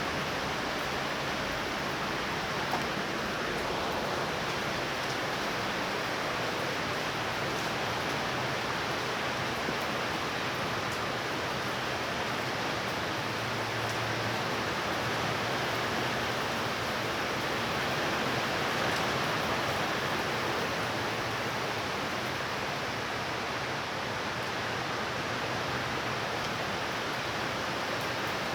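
Heavy rain falling in a steady, even downpour from a thunderstorm.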